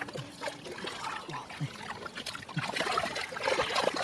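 Shallow muddy water splashing and trickling, with irregular short wet slaps and clicks.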